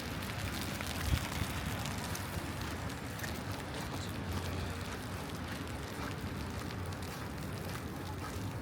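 Wet-weather city street noise: a steady hiss of light rain and passing traffic over a low rumble, with one short thump about a second in.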